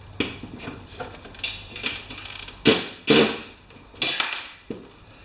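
Irregular metal clanks and knocks of hand tools working at a mower engine's oil drain plug, about ten in all, the loudest two about three seconds in; the plug is stuck and won't turn.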